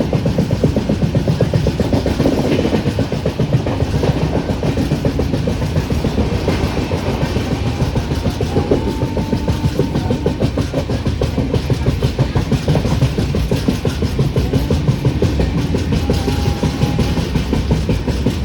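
Express train running at full speed, heard from aboard: a steady rumble and rapid rattle of wheels on the rails. A faint thin tone rises above it briefly about eight seconds in and again near the end.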